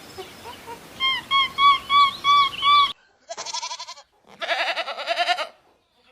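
Two long, wavering bleats from small livestock. They follow a run of six short, evenly spaced high calls that stop at a sudden cut.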